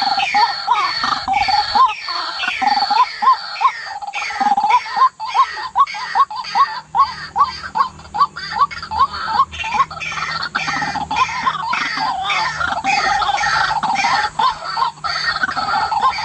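White-breasted waterhen calling: a long run of repeated croaking notes, about three a second, that runs together into a denser chatter in the second half.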